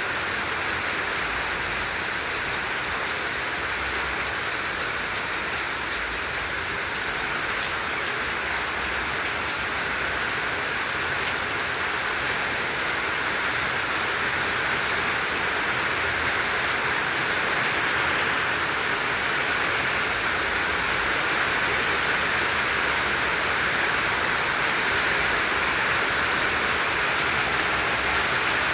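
Heavy tropical rain falling steadily, a dense hiss of drops hitting surfaces, growing slightly heavier toward the end.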